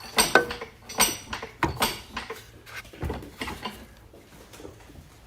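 Metal hand tools clinking and clanking against metal parts in a series of irregular sharp knocks, some ringing briefly.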